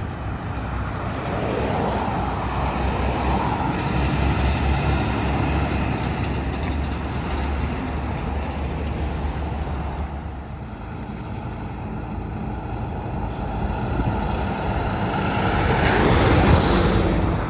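Highway traffic with trucks driving past: steady engine rumble and tyre noise, with one vehicle passing close and loud near the end.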